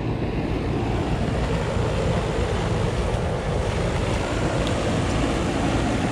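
Rheem central air-conditioner condenser unit running steadily with a constant low hum.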